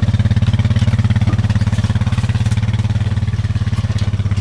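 Vehicle engine running with a steady, rapid low throb.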